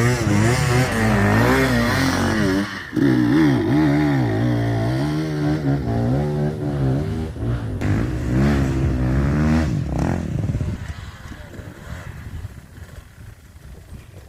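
Trail motorcycle engine revving up and down over and over, then fading away about ten seconds in.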